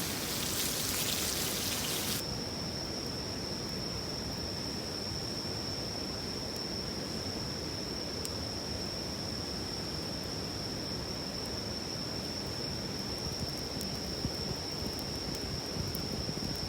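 Stream running with a steady rushing noise, and a single high, unbroken insect trill joining it about two seconds in, when a brighter hiss cuts off. A few faint clicks are heard later on.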